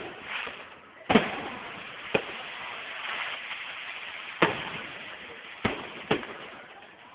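Aerial fireworks shells bursting: five sharp booms, the loudest about a second in, then about 2 s in, about 4.5 s in, and twice close together near 6 s, with a steady hiss between them.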